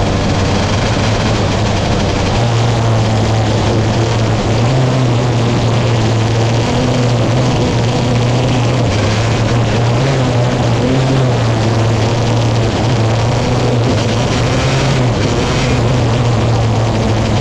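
Sprint car racing engines running together on a dirt track, a loud, steady drone whose pitch shifts only slightly.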